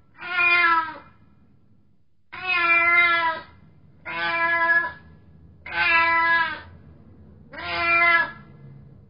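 A cat meowing: five drawn-out meows of steady pitch, each lasting just under a second, about a second and a half apart.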